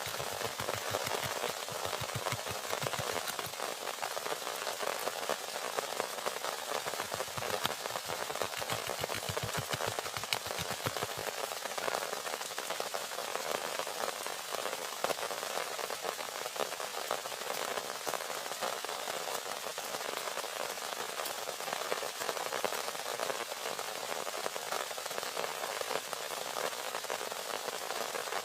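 Heavy rain falling, a steady dense hiss of countless small drop impacts.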